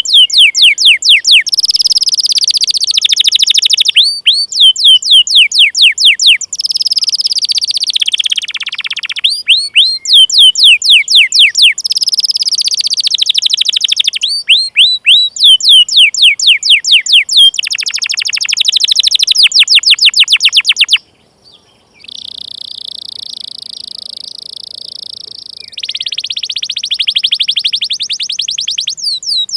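Domestic canary singing: quick runs of sharp, high, falling 'cuit' chirps alternate with fast rolling trills, with a short break about two thirds of the way through.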